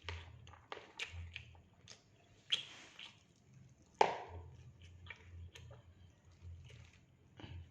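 Close-up eating sounds of a person chewing fried rice and fried fish: wet mouth smacks and sharp clicks, several a second, with the sharpest about two and a half and four seconds in.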